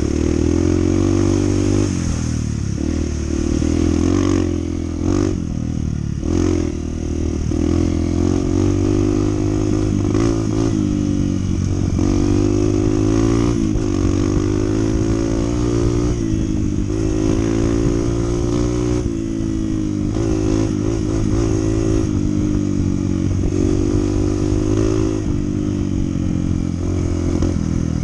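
Honda CT125's small single-cylinder four-stroke engine running under way, its pitch rising and falling with repeated throttle changes.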